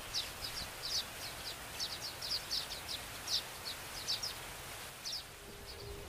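Baya weavers chirping: short, high chirps in quick runs of two or three, over a steady hiss, thinning out near the end.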